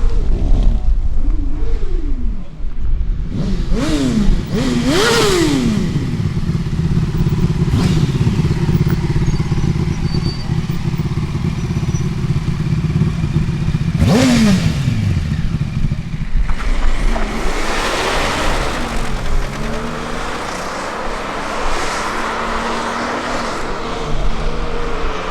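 Engines of cars or motorbikes leaving a meet, revving with the pitch rising and falling several times, then one passing close about fourteen seconds in, its pitch dropping sharply as it goes by. Steady engine rumble runs underneath, with a hazier mix of engine noise in the last third.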